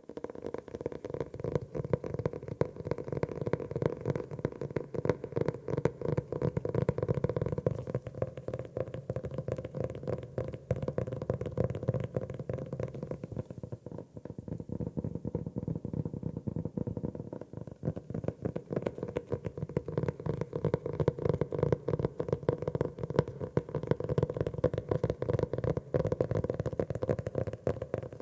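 Fingers tapping rapidly and continuously on a notebook: many quick soft taps with a hollow, low resonance, turning lighter and duller for a few seconds about halfway through.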